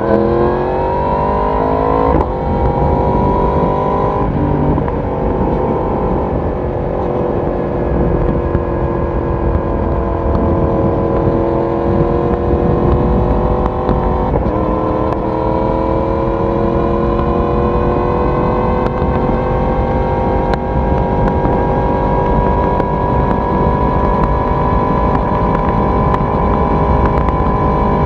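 Yamaha YZF-R1 inline-four engine and exhaust under acceleration, the revs rising and dropping sharply at upshifts about two, four and fourteen seconds in, then climbing slowly and steadily. Wind and road noise run underneath.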